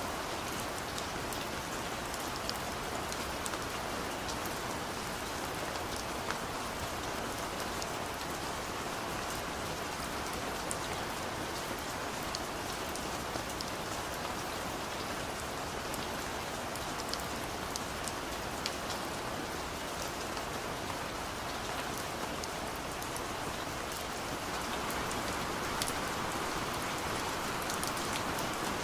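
Rain falling on a car, heard from inside the cabin: a steady hiss of rain with scattered single drop ticks, growing a little heavier near the end.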